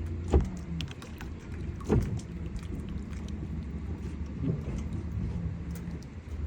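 An engine running steadily at low speed, with two loud thumps about a second and a half apart near the start.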